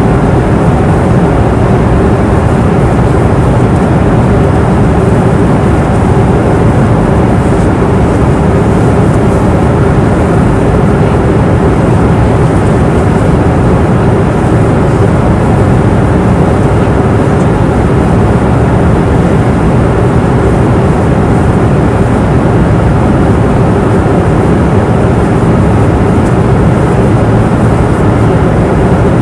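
Steady roar of an airliner's passenger cabin in flight: engine and airflow noise, strongest in the low end, with a faint steady hum.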